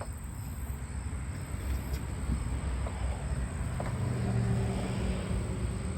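Low rumble of a vehicle engine, with a steady low hum setting in about three seconds in.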